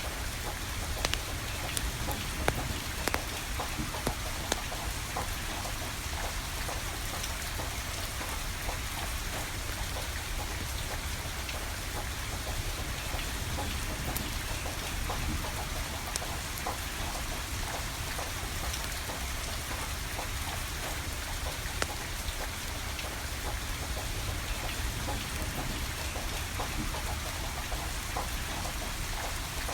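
Steady rain falling, with a wood fire crackling: scattered sharp pops over the even hiss, a few of them louder in the first few seconds.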